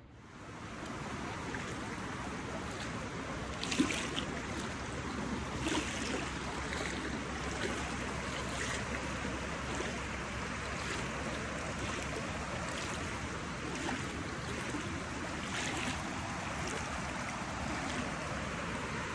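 Floodwater rushing steadily, with a few short sharp sounds over it, the loudest about four seconds in.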